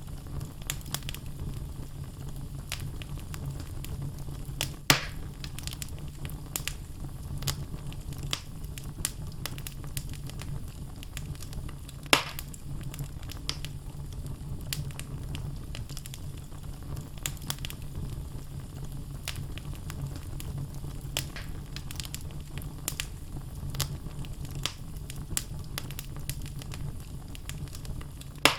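Wood logs burning in a fireplace, crackling constantly with small snaps over a steady low rumble. Louder pops come about 5 and 12 seconds in and again at the very end.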